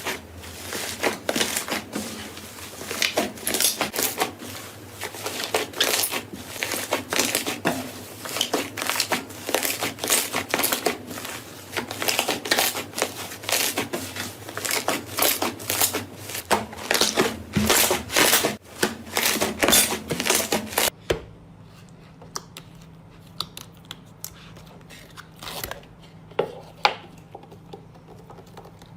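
Crunchy material being crushed and squeezed by hand: a fast, dense stream of sharp crunches and crackles that cuts off suddenly about two-thirds of the way through, leaving only a few faint clicks.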